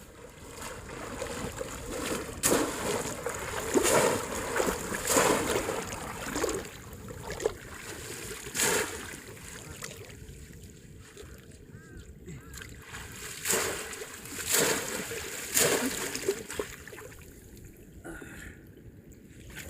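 Shallow water splashing and sloshing, with about eight sharp splashes at irregular intervals, as in fishing with a bamboo polo trap.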